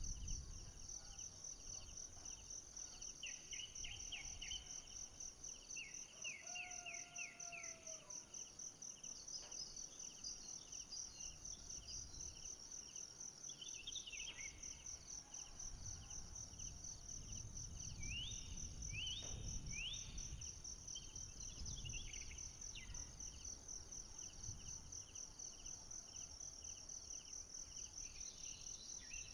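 Forest ambience dominated by a steady, high-pitched, rapidly pulsing insect trill, with a second lower pulsing insect chorus beneath it. Short runs of quick rising chirps break in every few seconds, and a low rumble swells through the middle.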